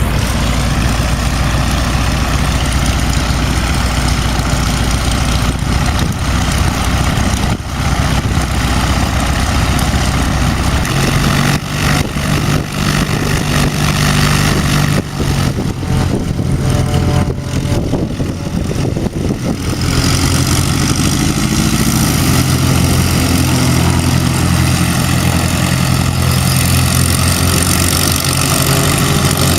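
Propeller aircraft engine running with a steady low drone that shifts pitch twice, under wind buffeting the microphone.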